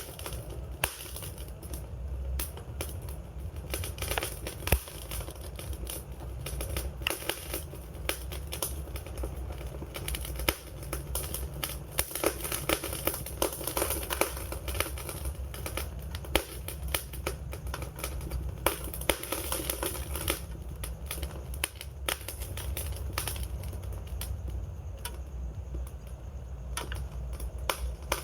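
Wood fire burning with dense, irregular crackling and popping over a low, steady rumble of the flames.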